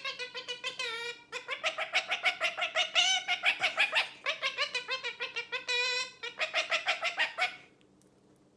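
A parrot giving a rapid run of short repeated pitched calls, about five or six a second, which stops shortly before the end.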